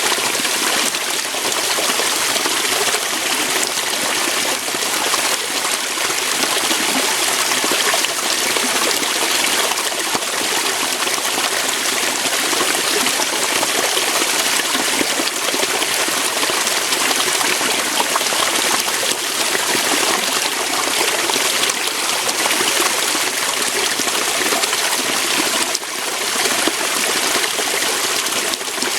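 Waterfall: water flowing over rocks in a steady, continuous rush.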